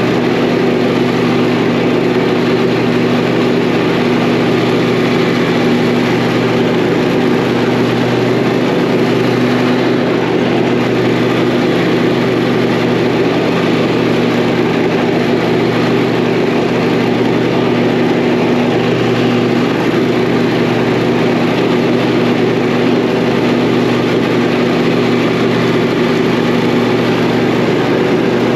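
Zero-turn lawn mower engine running steadily and loudly while mowing, its pitch holding constant throughout.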